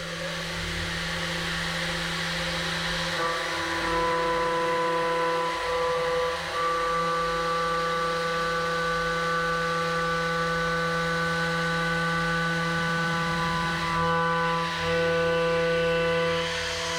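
HAAS Super Mini Mill CNC milling aluminium: the spindle and cutter give a steady, high, multi-toned whine as the tool cuts at constant speed. More tones join about 3 seconds in.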